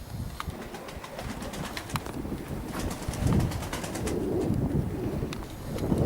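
Domestic pigeons cooing, growing louder about halfway through, with strong wind rumbling on the microphone and scattered sharp clicks.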